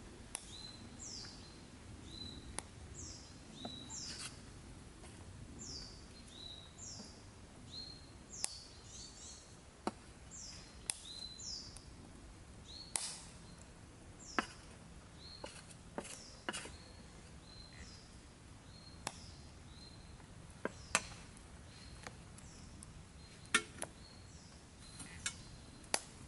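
A small woodland bird calling over and over, each short high note sliding down in pitch, about once a second for the first twelve seconds or so and then more sparsely. Scattered sharp taps and clicks sound close by, over a low steady background hiss.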